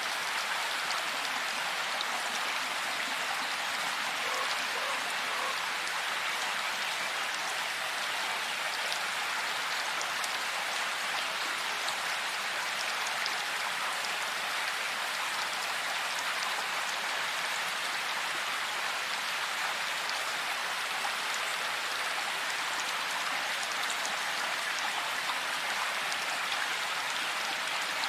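Heavy rain falling steadily, an even hiss of rain with faint scattered drop ticks and no rumble of thunder.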